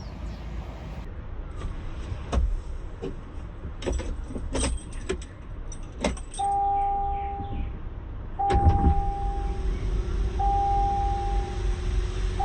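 Inside a car: a few sharp clicks and key jingles, then a steady whining tone that sounds four times, each a little over a second long, over a low car rumble.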